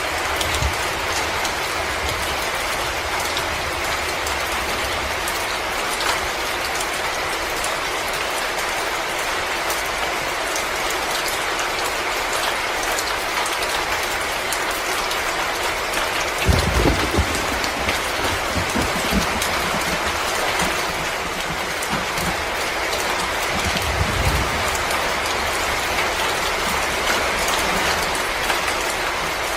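Wood fire crackling in a fireplace: a steady hiss with many small pops, and a few low thuds about halfway through and again later on.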